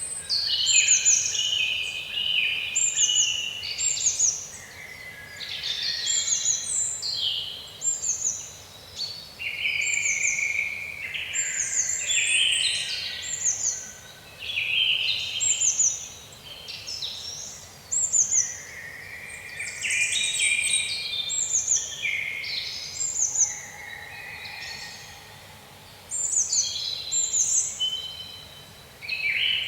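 Several songbirds singing at once in a woodland dawn-chorus style, with short high down-slurred notes repeated every second or two over fuller warbling phrases, and a faint steady background hiss beneath.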